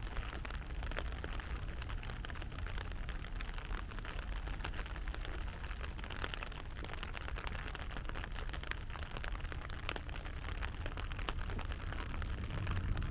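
Heavy rain falling steadily, a dense patter of individual drops over a constant low rumble.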